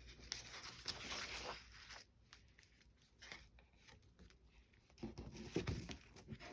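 Paper rustling as a vintage paper doll book is handled and its pages turned, with rustling for about the first two seconds and again about five seconds in.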